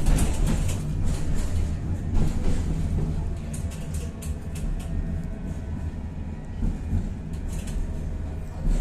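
Tatra-Yug K1M tram running along the track, heard from on board: a steady low rumble with irregular clicks and rattles from the wheels and car body.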